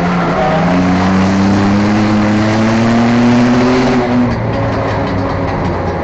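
Enduro race car engine under hard acceleration, its pitch climbing steadily for about three seconds, then dropping back a little after four seconds in, over a steady rush of road and wind noise.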